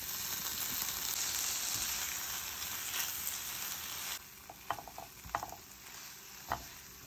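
Scrambled eggs with chicken and diced tomatoes sizzling in a nonstick frying pan while a silicone spoon stirs them. About four seconds in the sizzle suddenly drops quieter, and a few short scraping clicks from the spoon follow.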